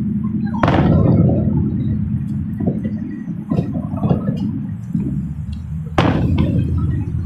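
Two loud fireworks bangs, the first about half a second in and the second near the end, each ringing out, with scattered smaller firework pops between them. A steady low rumble runs underneath.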